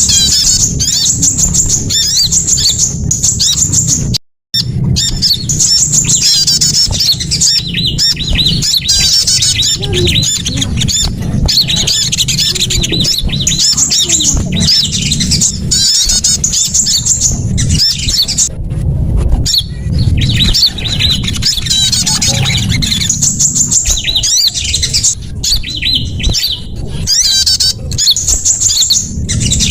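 Loud lure recording of small songbirds calling: rapid, high chirps and trills repeating without pause over a constant low rumble, with a brief dropout about four seconds in.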